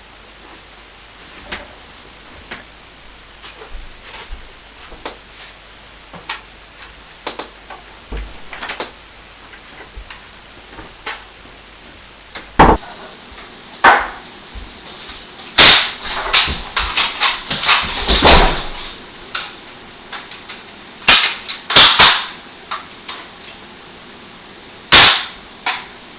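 A series of irregular sharp knocks and clacks, sparse and faint at first, then louder and more frequent from about halfway through, with a loud bang near the end.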